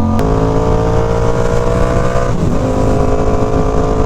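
Motorcycle engine pulling under acceleration, its pitch climbing steadily through the gears: one shift with a click just after the start and another about two and a half seconds in, where the pitch dips and climbs again.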